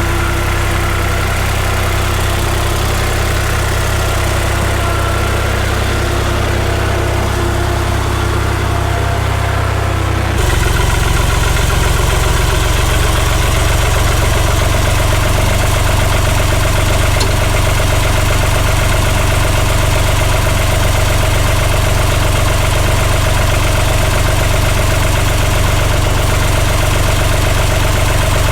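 Oliver farm tractor engine running steadily. About ten seconds in, the sound steps up, a little louder and fuller.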